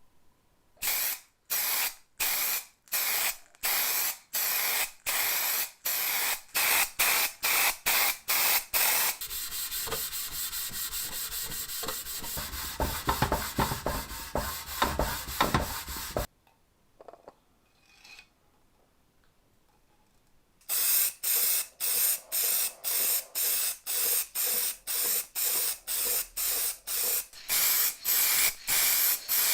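Quick repeated bursts of spraying, about two a second, in two runs, separated by a longer stretch of continuous hissing with crackles and a low rumble that stops suddenly, then a pause.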